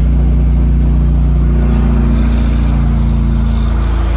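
Acura Integra's four-cylinder engine idling steadily, just after being started.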